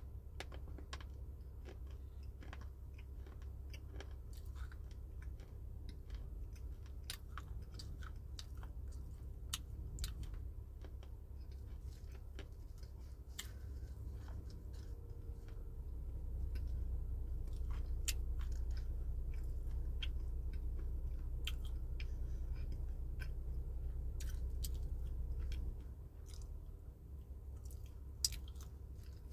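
Close-up chewing of crunchy red slate: many sharp, irregular crunches as the teeth break the brittle pieces. A low steady hum runs underneath and grows louder for about ten seconds midway.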